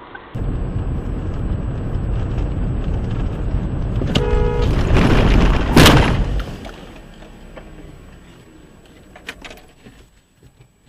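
Car road noise rumbling on a dash cam. A vehicle horn honks briefly about four seconds in, then comes a loud sharp bang near six seconds, and the road noise falls away after it.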